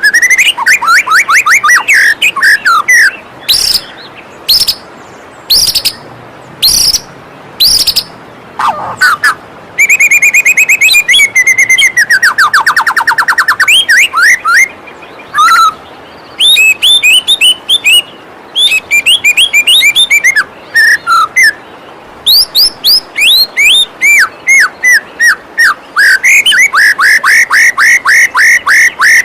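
White-rumped shama (murai batu) singing a fast, varied song of sweeping whistles, rapid repeated chips and a long fast trill partway through, over a steady rush of waterfall water.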